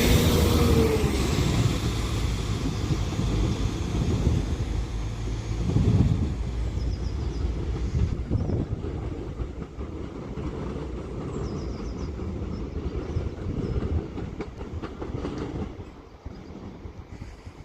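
Northern Class 195 diesel multiple unit pulling away and running off down the line, its engine and wheels loud at first and fading steadily, with wheels clicking over rail joints. Near the start a whining tone drops in pitch.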